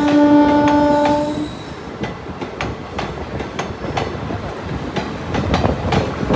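Train horn sounding one steady note for about the first second and a half, then a diesel-hauled passenger train's second-class coaches rolling past, their wheels clicking over the rail joints about three times a second.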